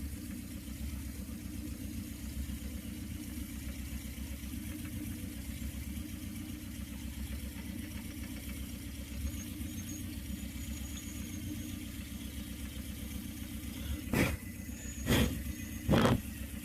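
Car engine idling steadily, its alternator belt running without its cricket-like squeal after being rubbed with paraffin wax. Near the end come three short, loud, sharp sounds about a second apart.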